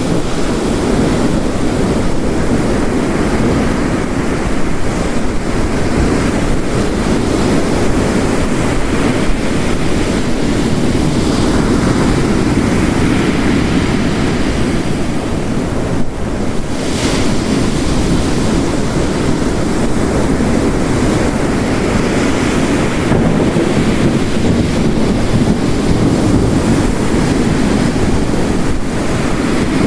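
Ocean waves crashing on a rocky coast with heavy rain, a steady dense roar of water that swells and eases slowly.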